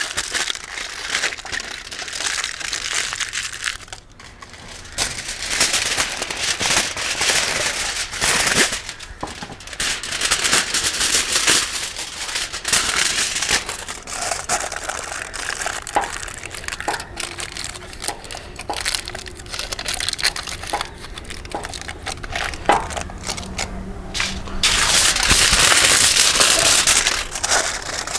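Crinkling and rustling of a wrapping material being handled and folded, with scattered small clicks and knocks and a louder stretch of rustling near the end.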